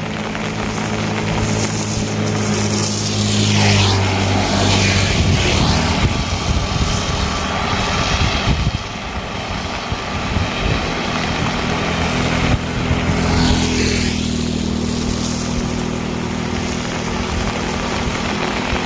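Motor vehicles passing close by, twice: a steady engine hum with a sweeping swish as one goes past about four seconds in and another about thirteen seconds in.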